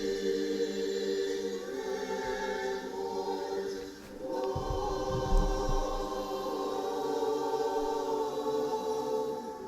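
Orthodox liturgical choir singing long held chords in chant, breaking off briefly about four seconds in and resuming. A short low rumble comes just after the restart.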